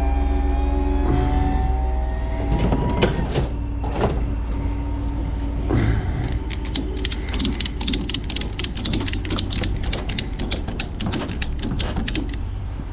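A ratchet strap being cranked tight over a load, giving a run of fast, even ratcheting clicks from about six seconds in, over a steady low rumble. A slowly rising whine is heard in the first few seconds.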